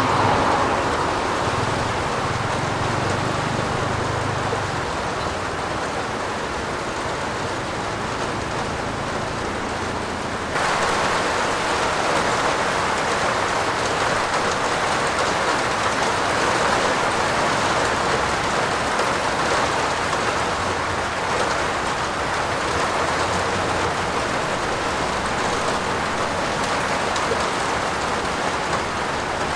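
Steady, heavy rain falling on a roof as a dense, even hiss. About ten seconds in it abruptly becomes louder and brighter, as if cut to another stretch of recording.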